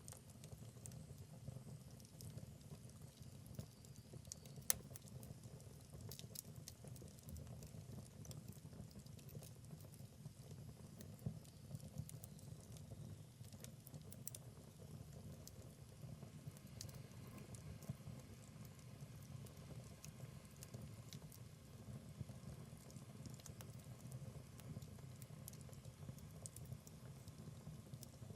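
Wood fire burning in a fireplace, crackling: a steady low flame noise with small pops and snaps scattered at random, the sharpest pop about five seconds in.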